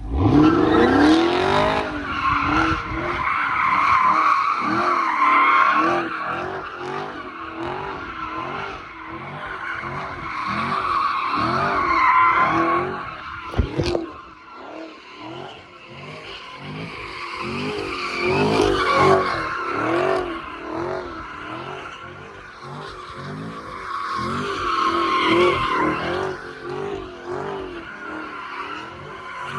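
Car engine revving hard and tyres squealing as the car is slid in circles, with the engine note rising sharply at the start and then swinging up and down over and over as the throttle is worked. A single sharp crack about halfway through.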